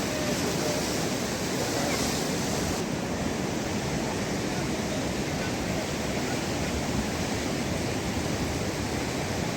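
Floodwater of the Ziz river rushing steadily, the river running again after rain.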